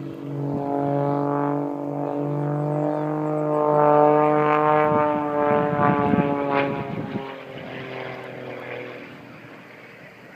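Propeller-driven airplane flying past. Its engine drone swells to its loudest about four seconds in, then fades away, the pitch sinking slightly as it goes.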